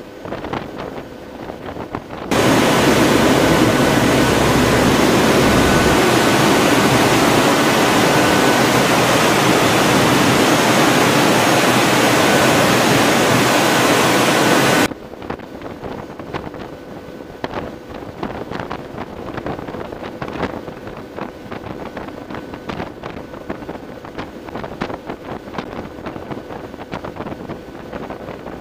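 Wind buffeting the microphone, with a much louder, steady rush of wind noise that starts abruptly about two seconds in and cuts off abruptly about halfway through.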